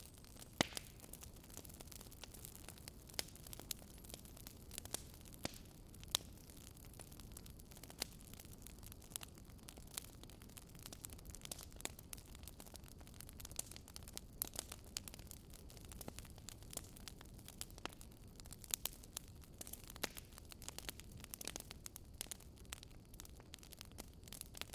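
Wood campfire crackling, with irregular sharp pops and snaps, a few louder than the rest, over a faint steady low rush.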